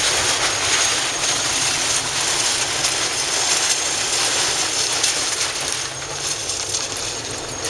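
Steady rushing noise of a car on the move, heard from inside the cabin, with faint small clicks throughout; it eases slightly about six seconds in.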